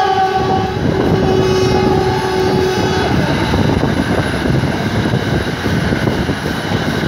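A train whistle held on one steady note, weakening about a second in and cutting off about three seconds in, over the steady running noise of a moving passenger train: wheels on rail and rushing air.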